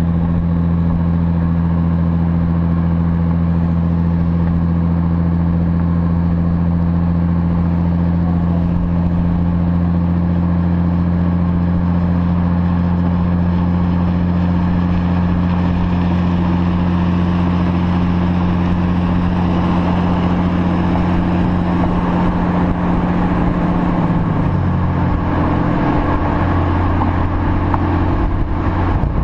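Engine and dual exhaust of an APR Stage 2+ tuned Audi S4 running at a steady speed with a low, even drone. About 24 seconds in, the engine note changes pitch and then holds steady again.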